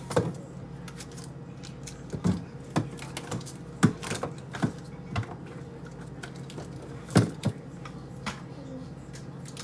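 Irregular clicks and knocks of household items being handled and set down, a dozen or so spread unevenly, over a steady low hum.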